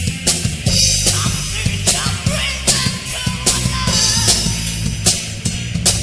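Heavy metal band recording playing at full tilt: a drum kit with frequent cymbal and snare hits over a dense, loud band mix.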